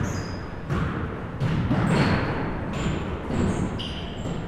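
Basketball bouncing on a gym floor: several thuds, roughly half a second to a second apart, with short high squeaks between them.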